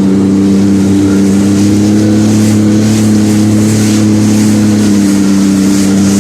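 Jet ski engine running loud and steady at constant throttle.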